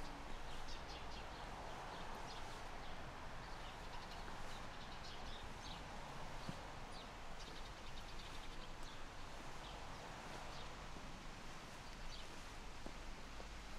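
Outdoor ambience: a steady background hush with short, high bird chirps scattered throughout.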